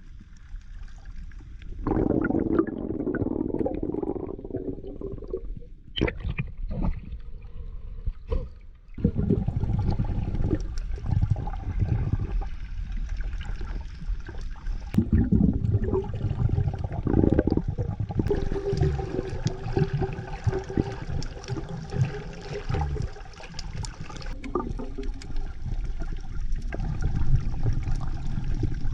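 Sea water sloshing and gurgling against a submerged or half-submerged microphone while swimming: muffled, irregular rushing, with a few sharp knocks.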